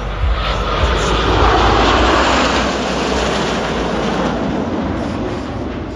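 Blue Angels jet flying past, its rushing engine noise swelling to a peak about two seconds in and then slowly fading away.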